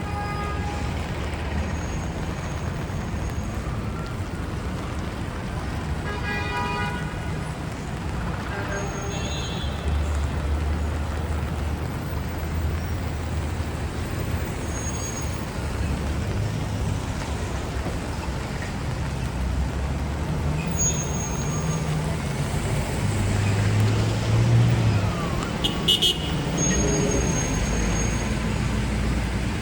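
Street traffic on a wet city avenue: a steady hiss of tyres and engines running, with a couple of short car horn toots, the first about six seconds in.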